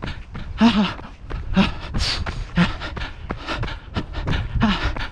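A runner breathing hard, a short voiced pant about once a second, with the quick even taps of running footsteps between the breaths.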